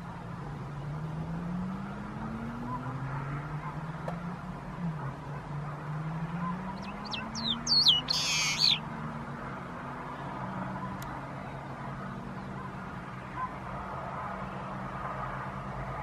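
A bird calls once about halfway through: a few quick, high chirps, then one louder, harsher note, over a steady low drone that slowly rises and falls in pitch.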